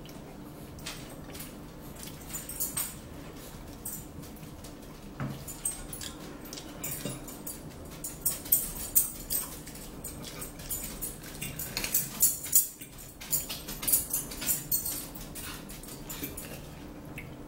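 Close-miked eating sounds: wet chewing and mouth clicks as a forkful of food is eaten, thickest about halfway through, with a fork now and then touching the plate, over a low steady hum.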